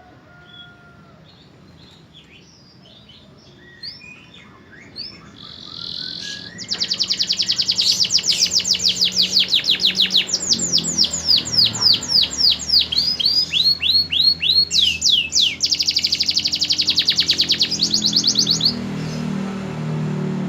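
Canary singing: a few soft twitters, then from about six seconds in a loud song of fast trills, runs of rapid repeated notes that switch to a new trill several times before stopping near the end. A low hum sits underneath in the last few seconds.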